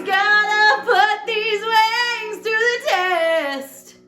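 A woman singing a held, wavering phrase; about three seconds in, her last note glides downward and fades out.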